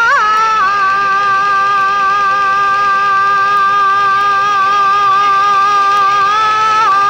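Peking opera singing: one voice holds a single long note with vibrato, opening with a short ornamental turn and breaking into quick ornaments near the end, over the opera's accompaniment.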